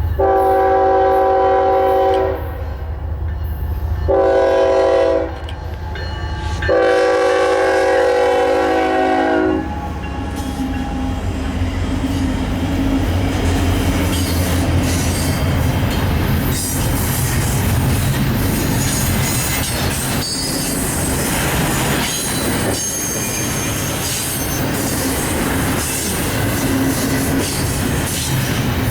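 Union Pacific locomotive's air horn sounding three blasts, long, short, long, over the diesel engine's low hum. About ten seconds in, the train passes: steady wheel and rail noise with clickety-clack over the rail joints and brief high wheel squeals.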